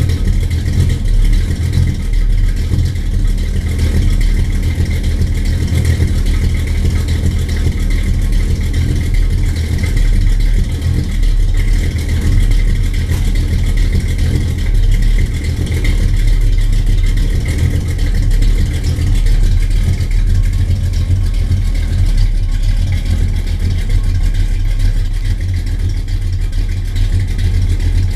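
Car engine idling steadily on a cold start, loud and even, with its deep low notes strongest and no revving.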